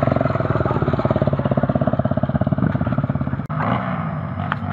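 Off-road trail motorcycle engine running at low, even revs, its firing pulses steady. A bit over three seconds in the sound breaks off abruptly and picks up again as a smoother engine sound with a few light clicks.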